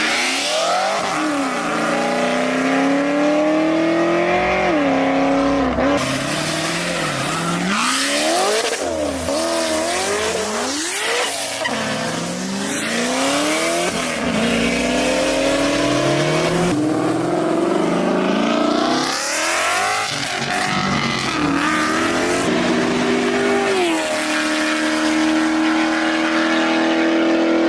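Car engine revved hard over and over, its pitch climbing and dropping again and again, then held high and steady near the end. A loud hiss of spinning tyres runs under it, as in a burnout.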